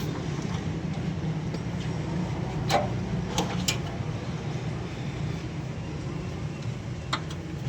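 A steady low engine-like hum with a few short, sharp clicks scattered through it.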